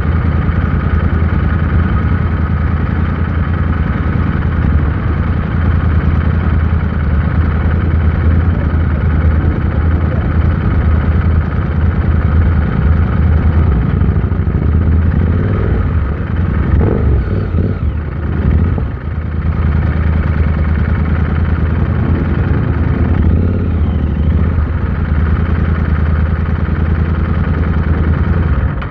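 Royal Enfield Interceptor 650's parallel-twin engine running steadily at constant revs. About two-thirds of the way through the level dips briefly and the engine note changes, then settles back.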